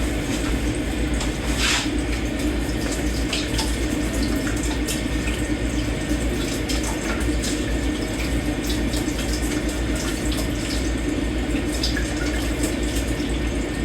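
Tap water running steadily into a kitchen sink while dishes are washed by hand, with scattered small clinks of dishes and cutlery, a sharper one about two seconds in.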